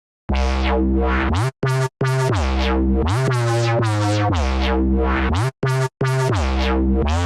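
Aggressive synth bass patch, made in Arturia Pigments from an FM bass sample, playing a repeating riff. A filter sweep opens and closes its tone on each note, the pitch glides up between some notes, and it cuts out briefly twice.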